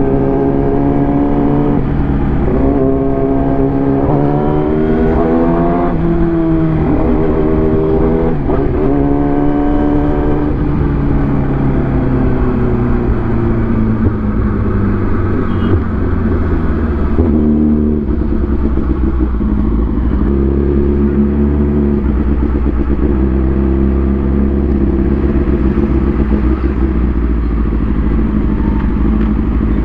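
Motorcycle engine under way, revving up and dropping back through several gear changes in the first ten seconds or so, then running at a steadier, lower pitch.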